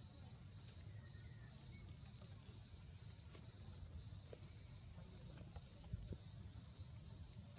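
Steady high-pitched drone of an insect chorus over a low rumble, with a faint knock about six seconds in.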